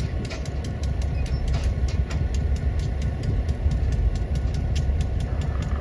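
Amtrak Sunset Limited train's diesel locomotive running with a steady low rumble during a switching move.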